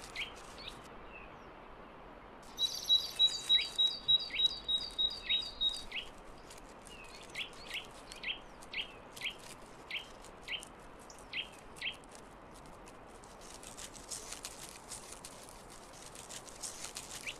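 Small songbirds calling: a quick run of about a dozen high, even notes a few seconds in, then single short down-slurred calls about twice a second.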